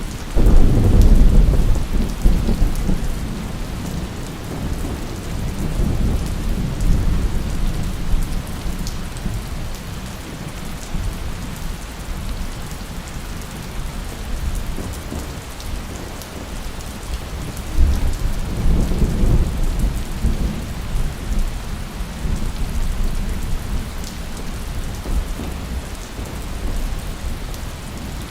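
Steady heavy rain with two rolls of thunder: a sudden close crack and deep rumble right at the start that fades over several seconds, and a second rumble starting about two-thirds of the way through.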